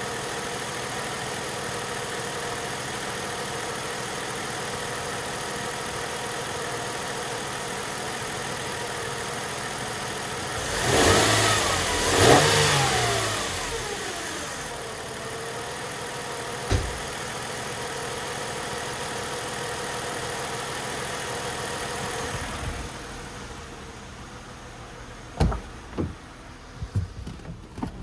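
Mercedes-Benz ML320's 3.2-litre V6 idling steadily while warming up after a cold start, blipped twice about eleven seconds in, the pitch rising and falling each time before settling back to idle. Near the end the engine sound drops away and a few sharp knocks follow.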